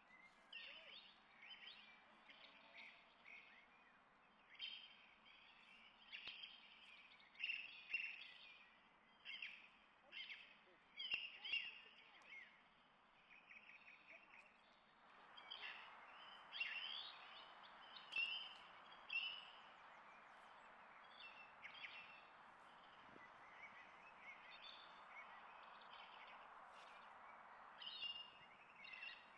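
Small birds chirping and singing in quick, high, repeated phrases, faint, with a soft steady hiss joining in about halfway through.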